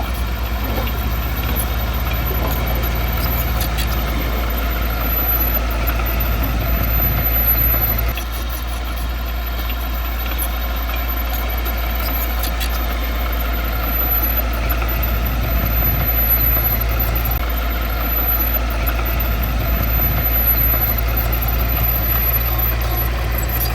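Diesel engine of heavy earthmoving equipment running steadily, with a slight drop in level about a third of the way through.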